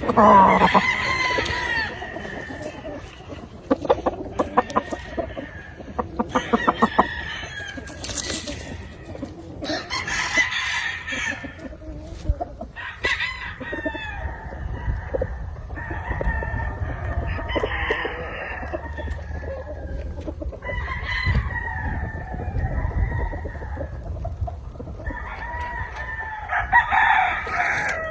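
Gamefowl roosters crowing again and again through the farm, with clucking between the crows.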